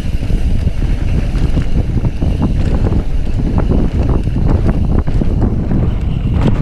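Heavy wind noise buffeting a helmet- or bike-mounted microphone at riding speed, with a steady stream of small knocks and rattles from a mountain bike running over a dirt trail.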